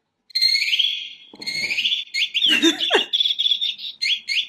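Battery-powered talking bird toy (Jolly Moggy) chirping and tweeting in rapid repeated electronic bursts. Briefly in the middle, a lower voice-like sound with a sliding pitch.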